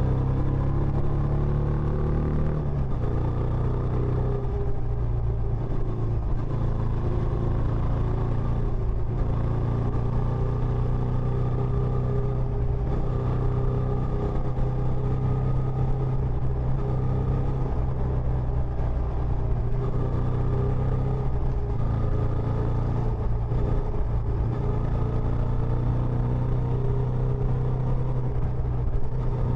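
Benelli Imperiale 400's single-cylinder engine running through its stock exhaust, a steady note that shifts slightly in pitch a few times.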